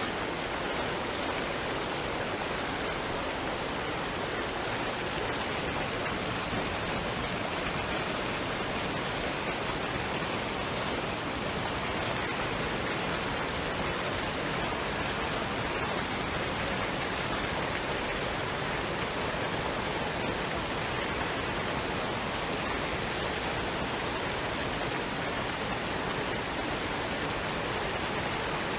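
Waterfall and stream water rushing in a steady, even roar of noise with no breaks.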